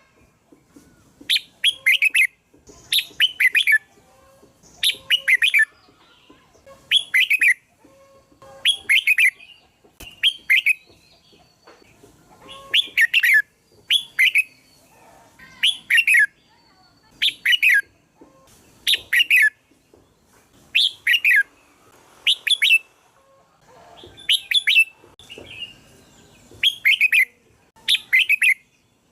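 Red-whiskered bulbul song: short, bright, chirping phrases repeated about every one and a half to two seconds.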